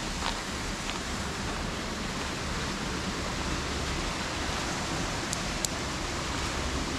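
Steady rush of flowing water, an even hiss with no break. Two faint high clicks come through about five and a half seconds in.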